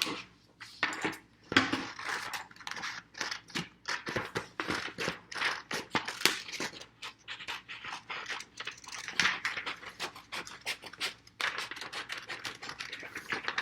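Scissors snipping through paper in a quick run of short, irregular cuts.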